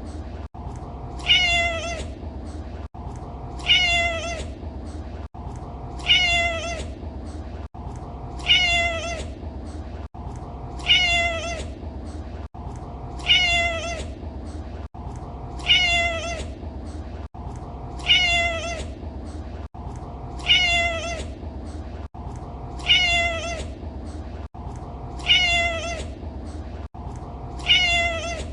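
A domestic cat's meow, the same short call repeated at even intervals about once every two and a half seconds, over a steady low hum.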